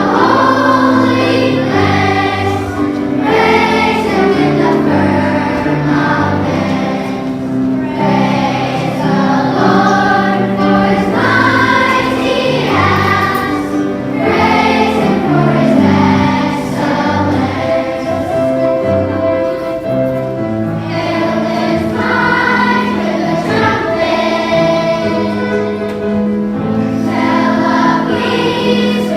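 Children's choir singing a praise song with instrumental accompaniment.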